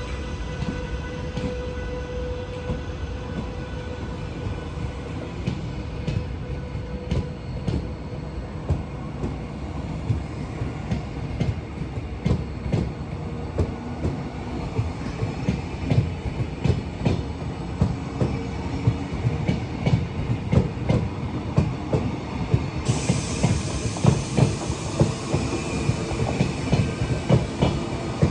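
Caledonian Sleeper train passing: a continuous rumble of wheels on track, with clicks over the rail joints that come thicker and louder from about halfway in. A few steady whining tones fade out in the first seconds.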